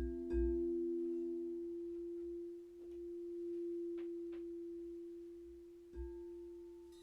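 A struck metal sound-healing instrument rings with a steady, pure hum that slowly fades. It is struck lightly again just after the start and about six seconds in, while a lower second tone dies away within the first two seconds.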